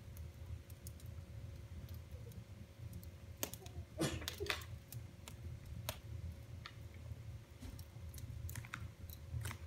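Wood fire in a fireplace crackling: scattered sharp pops and snaps, with a small cluster of them about four seconds in, over a low steady rumble.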